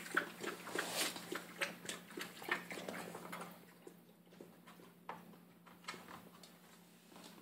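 Puppy eating from his dish: a run of quick clicks and crunches, dense for the first three seconds or so and then sparser.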